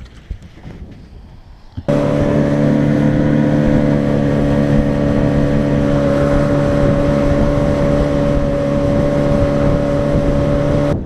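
Boat motor running at a steady pitch, cutting in suddenly about two seconds in at full level.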